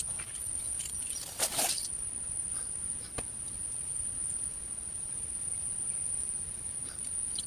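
Steady, high-pitched insect trill, with a brief rustle about a second and a half in and a faint click near the middle.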